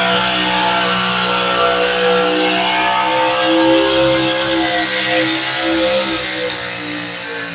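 Engine of a pulling vehicle running hard under load as it drags the weight sled down the track, its pitch wavering slightly midway and the sound easing off a little near the end.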